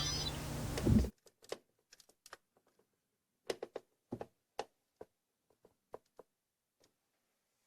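Background music ending about a second in, then scattered light clicks and taps of hard plastic parts being handled, as on a transforming robot toy, loosely grouped between about three and a half and five seconds in.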